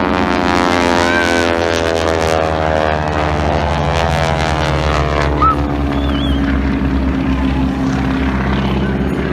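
Aircraft flying past overhead with a loud, steady engine drone whose pitch slowly falls as it goes by.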